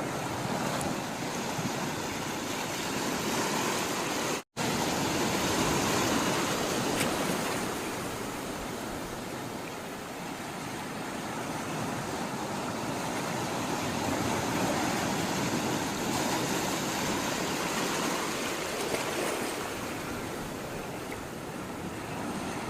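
Sea water rushing and washing in a steady hiss that swells and eases slowly, with a brief total dropout about four and a half seconds in.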